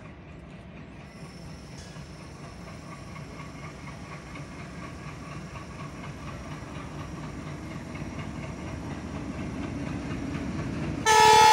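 Goods train hauled by a diesel locomotive approaching a level crossing, its rumble growing steadily louder. Near the end the locomotive's horn starts suddenly in a loud, sustained blast.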